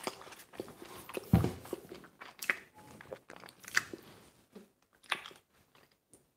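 Close-up chewing of pizza with irregular clicks and soft knocks from the camera and the cardboard pizza box being handled. The loudest is a single thump about a second and a half in, and the sounds thin out near the end.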